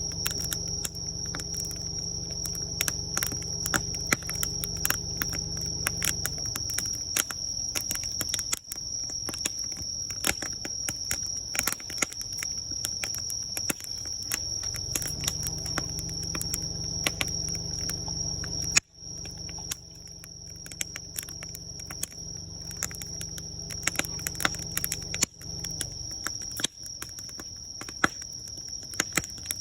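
Wood fire crackling, with many sharp pops and snaps throughout, over a steady high trill of insects. A low hum fades out about a third of the way in, returns, and fades again near the end.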